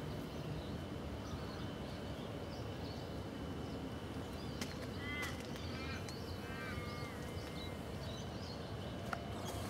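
Steady low background rumble of outdoor ambience, with a bird giving a short series of chirping calls about five to seven seconds in.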